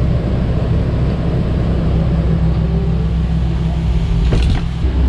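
Boat's onboard generator running with a steady low drone, with a couple of brief clicks about four and a half seconds in.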